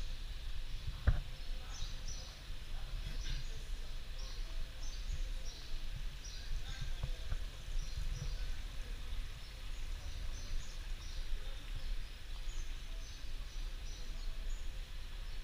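Small birds chirping in short, scattered calls over a steady low rumble, with one sharp click about a second in.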